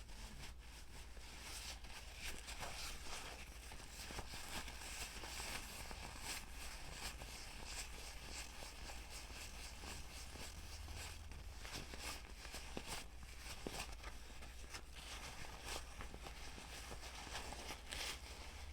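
Close-miked ASMR trigger sounds: continuous crisp crackling and rustling, dotted with many small sharp clicks, over a low steady hum.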